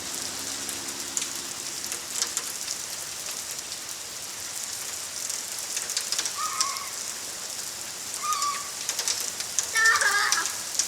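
Heavy rain pouring down, a steady hiss with sharp drops striking close by now and then. A few short high-pitched calls break through about six, eight and ten seconds in.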